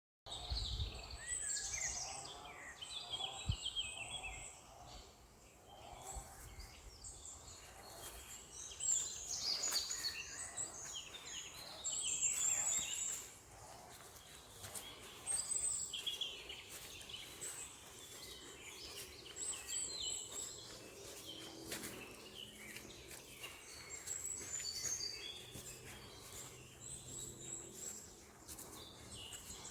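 Several songbirds calling and singing at once: a dense, overlapping chorus of short high chirps and trills.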